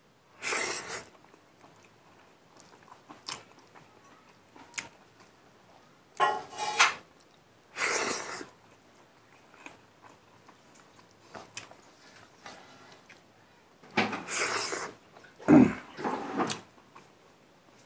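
Close-up chewing and mouth smacking of a man eating rice and mustard greens by hand, in irregular short bursts with quiet gaps between, loudest near the end.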